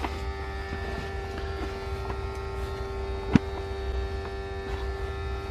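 Steady hum made of several steady tones over a low rumble, with a few faint small ticks and one sharp click a little over three seconds in.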